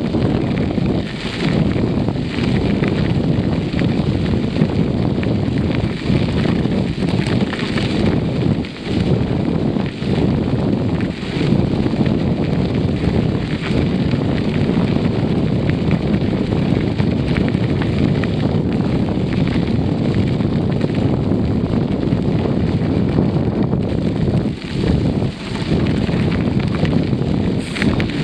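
Wind rushing over the microphone of a camera riding along on a bicycle: a steady low rumble with a few brief dips.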